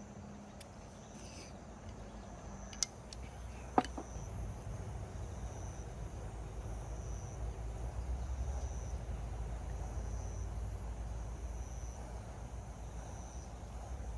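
A cricket chirping in a slow, steady rhythm, about once a second, over a low rumble that grows louder after two sharp clicks about three and four seconds in.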